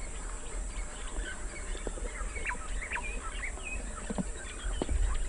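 Birds calling in the bush: many short chirps and quick whistled notes, with a steady low rumble underneath and a couple of faint knocks near the end.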